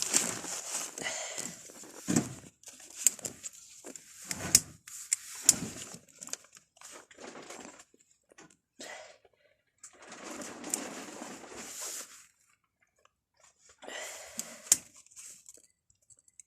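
Irregular rustling and crunching in short bursts, with several sharp knocks and clicks and pauses between them: hands handling materials at close range.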